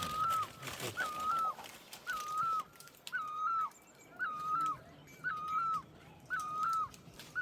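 A bird calling the same short whistled note about once a second, seven times over. Each note holds level and then drops away at the end.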